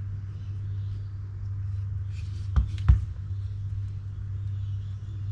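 Two sharp clicks in quick succession about halfway through, from small metal reel parts being handled as an O-ring is fitted over the pin that locks them in, over a steady low hum.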